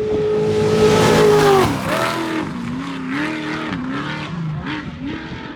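Trophy truck racing past at speed: its engine is loudest about a second and a half in, drops in pitch as it goes by, then rises and falls again and again as the throttle is worked, over a rushing hiss of tyres on dirt.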